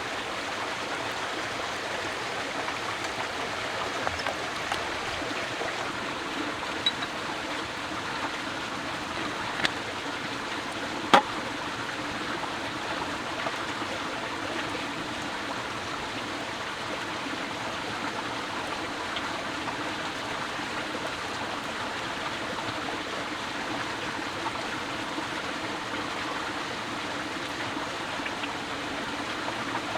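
Steady rushing, water-like noise with a few sharp clicks, the loudest about eleven seconds in.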